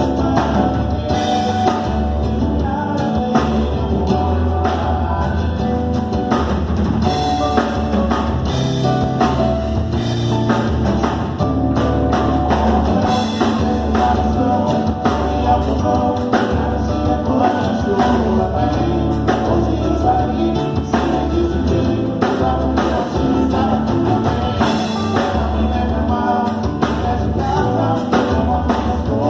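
Live band playing a song: a singer over a drum kit and guitar.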